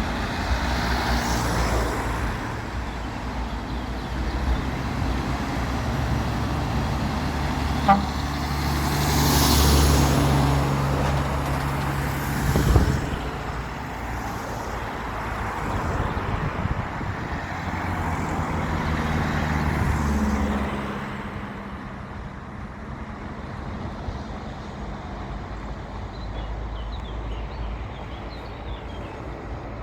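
Heavy trucks' diesel engines running as they pass, loudest about a third of the way in and fading away after two-thirds, with a horn toot.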